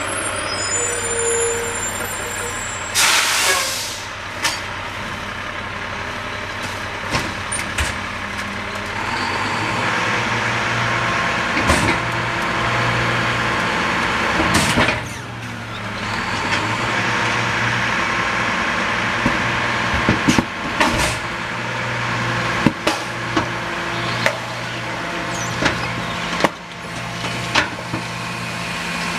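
Rear-loader garbage truck running through its packing cycle: the engine and hydraulics run steadily while the packer blade compacts garbage. There are bursts of air hiss about three seconds in and again halfway through, and many sharp cracks and pops as the load is crushed.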